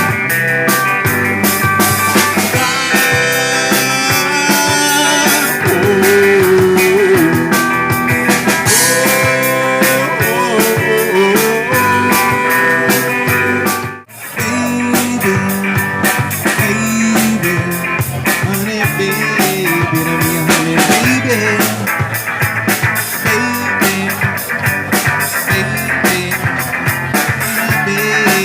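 Live rock band playing a passage with drum kit and guitar, without words. The music breaks off for an instant about halfway through, then carries on.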